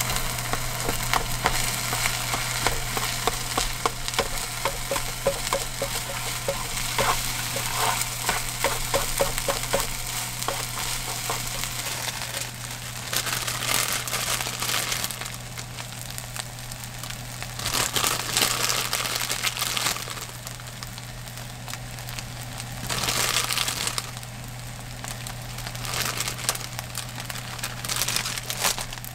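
Fried rice sizzling in a square pan on a portable gas stove, with chopsticks stirring and scraping through it in a quick run of taps. From about halfway, a plastic salad bag crinkles in four separate bursts as cut lettuce is tipped into the pan over a quieter sizzle. A steady low hum runs underneath.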